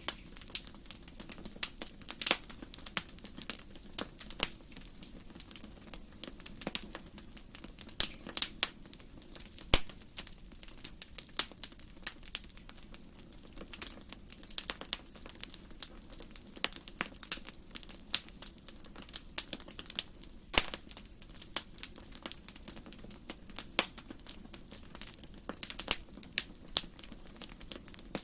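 Wood fire burning in a fireplace: irregular sharp crackles and pops, several a second, a few of them louder, over a steady low rush of the flames.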